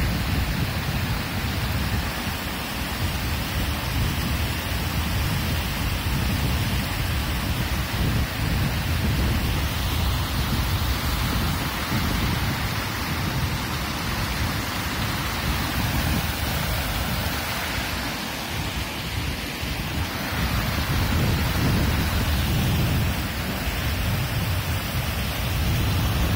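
Shallow mountain river rushing over rocks and boulders: a steady, loud wash of running water with a deep rumble beneath it.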